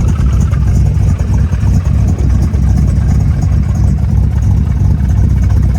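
1968 Camaro's 327 small-block V8 idling steadily with a deep, even exhaust note. It is firing on all eight cylinders now that the dead number 7 cylinder has been cured.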